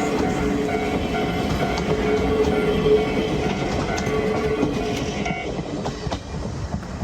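A train running past, loud and steady, its noise easing off about five seconds in.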